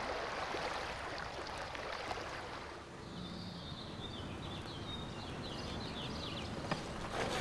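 Steady outdoor background noise, then a small bird chirping and twittering in quick short notes from about three seconds in.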